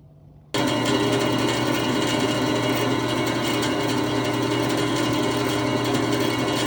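Jet JWBS-14SFX bandsaw running steadily, a continuous mechanical whir with several steady tones. It comes in suddenly about half a second in. Its blade-guide bearings have just been backed off and reset to cure a noise.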